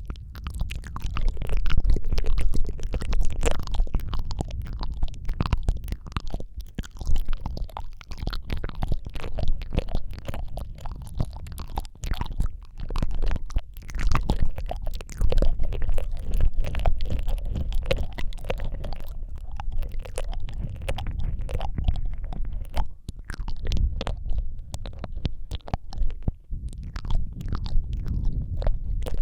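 ASMR mouth sounds made right at the microphone: a dense, irregular run of wet clicks and smacks of the lips and tongue, over a low rumble from the closeness to the mic.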